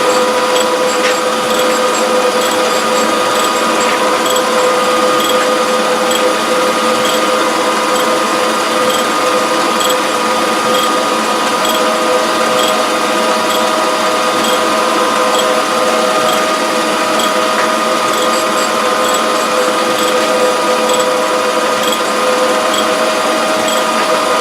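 Repaired surface grinder with its hydraulics on, running steadily: a constant motor hum and whine. A second steady tone joins about halfway through, and faint regular ticking runs underneath.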